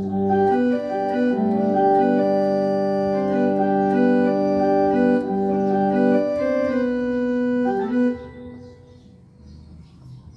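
Casio CTK-625L electronic keyboard's church organ voice playing a slow run of held chords through the keyboard's built-in speakers, the notes stopping about eight seconds in.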